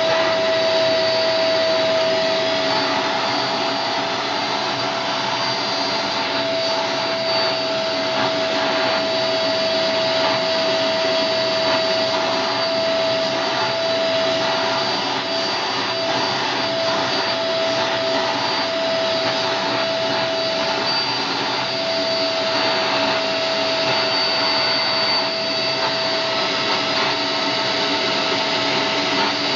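Vacuum cleaner running steadily with a constant motor whine, being run over a dog's coat; the whine wavers briefly in the middle.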